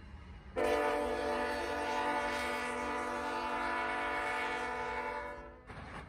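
A horn sounding one long, steady blast of about five seconds, a chord of several tones, cutting off near the end.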